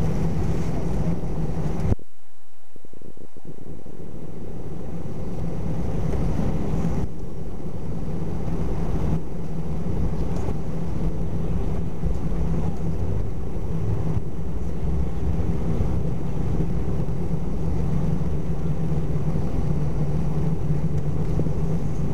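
Airbus A320 cabin noise heard from a forward passenger seat: engines and airflow making a steady rumble with a constant low hum. The low rumble drops out briefly about two seconds in.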